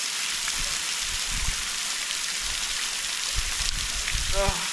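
Waterfall water pouring and splashing close to the microphone, a dense steady hiss that overpowers the mic. There are irregular low thumps, and a short vocal sound from a man near the end.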